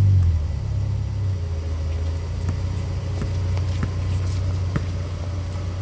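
Low steady hum of a vehicle engine idling nearby, dropping in level just after the start, with a few sharp thuds of a basketball bouncing on the court.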